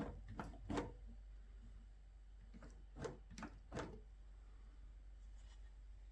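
Two quick runs of three short knocks or clicks, one at the start and one about three seconds in, over a faint steady low hum.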